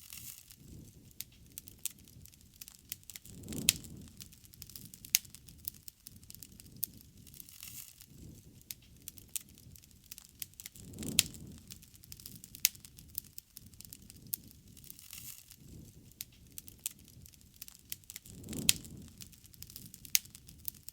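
Wood bonfire crackling, with frequent sharp pops and snaps. A low surge of flame noise swells up about every seven seconds.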